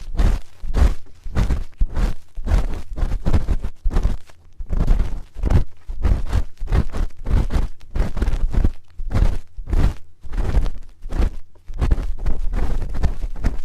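Spoon rubbing and scraping on an ear-shaped ASMR microphone in quick repeated strokes, about four a second, each with a heavy, close contact rumble.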